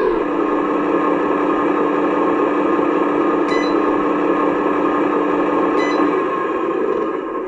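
Radio-controlled model excavator's electric motor and pump whining steadily. The pitch drops right at the start, then holds steady, and the sound eases off near the end. Two short clicks come in the middle.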